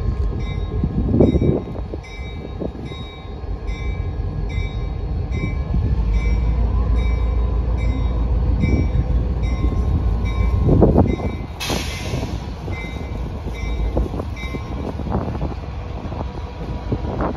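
Cape Cod Central Railroad passenger train rolling slowly out, a steady low rumble of wheels and cars, with a bell ringing about twice a second over it. A short hiss about eleven and a half seconds in.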